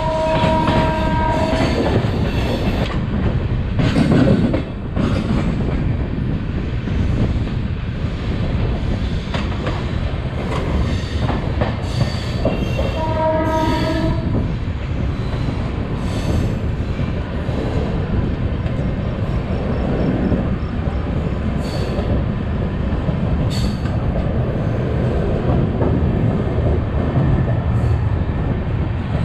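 Taj Express passenger train running on the rails with a steady rumble and wheel noise, and a train horn sounding briefly twice: at the very start and about halfway through.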